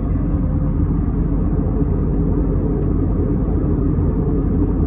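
Steady loud rumble of an Airbus A321neo's CFM LEAP-1A engines and rushing air, heard inside the passenger cabin.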